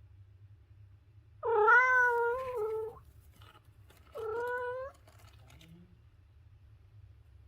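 Domestic cat meowing twice: a long, loud meow, then a shorter, quieter one about a second later.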